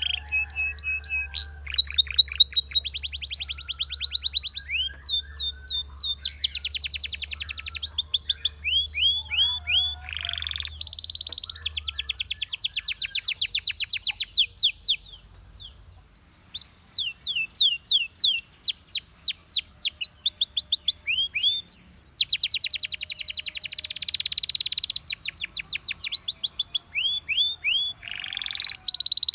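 Canary singing: fast trills of repeated rising notes and buzzing rolls, with a short pause about halfway through.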